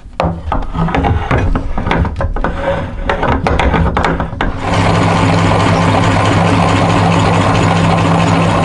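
Electric meat grinder running with a steady motor hum. For about the first four and a half seconds it gives many sharp cracks and knocks, then it changes abruptly to a loud, dense, steady grinding.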